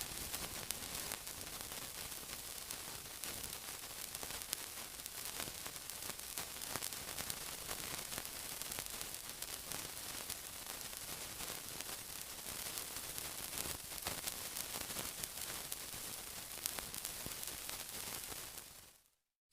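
Steady sizzling: a dense high hiss full of fine crackles and pops, fading out just before the end.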